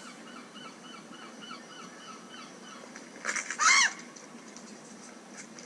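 Gulls calling: a string of faint short calls, with one louder drawn-out squawk about three seconds in, over a steady hiss.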